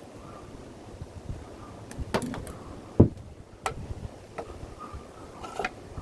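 A few scattered clicks and knocks of things being handled, the loudest a single dull thump about three seconds in.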